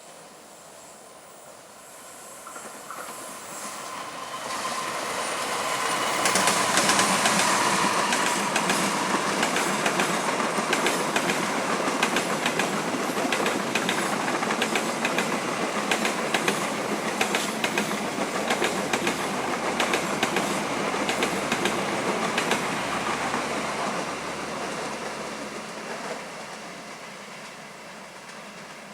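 A train passing: it draws near, runs past with its wheels clacking rapidly over the rail joints for most of the pass, and fades away over the last few seconds.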